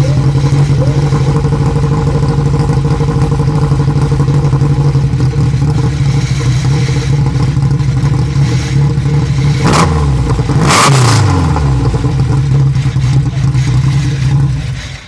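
Abarth 2000 Sport Tipo SE010's two-litre engine running at a steady idle. About ten seconds in it is blipped twice in quick succession, and the revs fall back after each blip before settling to idle.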